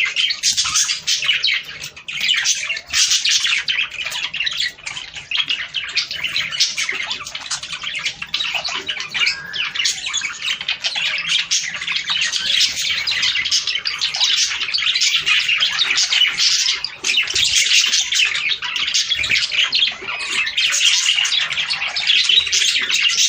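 Budgerigars chattering and warbling without a break, a dense run of high chirps and squawks.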